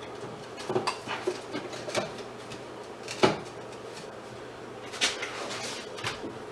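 Scattered clicks, clinks and knocks of tools and metal and plastic parts being handled while an outdoor light fixture with a brass trim ring is taken apart. The sharpest knock comes about a third of the way in, with a small cluster of clinks a little later.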